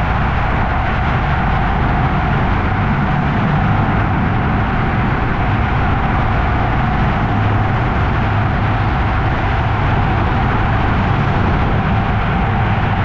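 Motorcycle engine running steadily at cruising speed, with wind noise rushing over the camera microphone.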